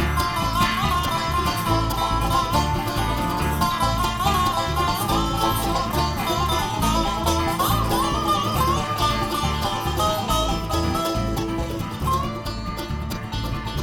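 Bluegrass band playing an instrumental break: a plucked-string lead melody over a steady bass and rhythm pulse.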